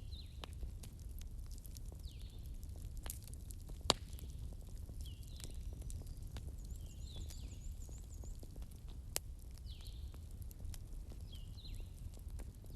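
Crackling fireplace: a steady low rumble with scattered sharp pops, the loudest about four seconds in. Short high chirps that fall in pitch repeat every second or so over it, with a brief rapid trill midway.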